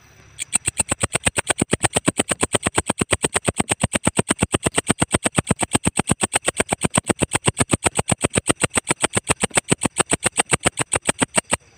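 Walang ecek katydid stridulating: a long, even train of sharp, rapid clicks, several a second and strongest high in pitch, starting about half a second in and cutting off suddenly near the end.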